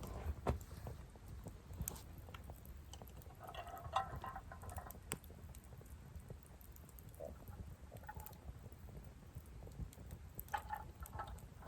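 Someone eating noodle soup quietly: faint chewing and slurping, with scattered small clicks and taps of chopsticks and bowl.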